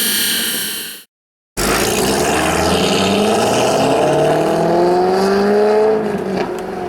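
A C6 Corvette's LS2 V8 through long-tube headers and a Corsa exhaust: the engine note falls and fades, cuts to silence for half a second, then comes back accelerating, its pitch rising steadily for about four seconds before it drops to a lower, steady note near the end.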